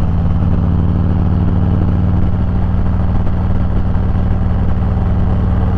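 Harley-Davidson motorcycle's V-twin engine running steadily at low road speed, a low, even rumble.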